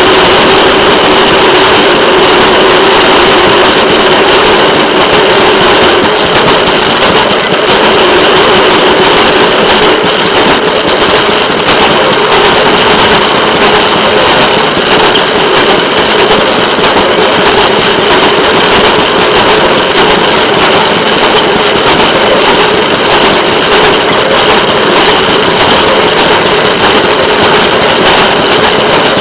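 Train in motion, heard from a camera mounted outside the rail vehicle: a loud, steady engine drone with a constant mid-pitched hum.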